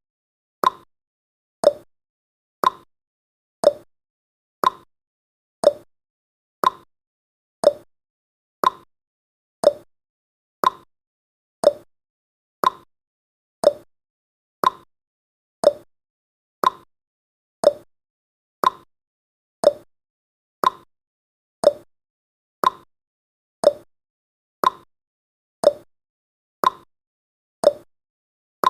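Clock-tick sound effect of a countdown timer: one sharp tick every second, steady and evenly spaced.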